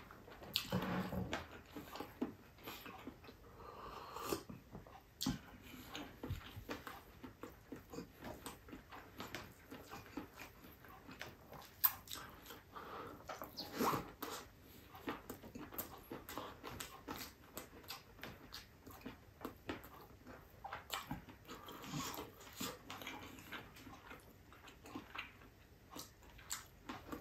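Close-up mukbang eating sounds: wet chewing and lip-smacking, many short smacks and clicks, as chewy octopus adobo and rice are eaten by hand.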